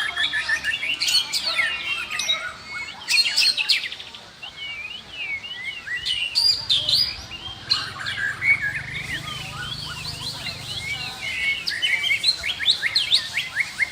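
Several white-rumped shamas singing over one another: a dense, continuous stream of quick varied whistles, swooping notes and rapid chattering runs.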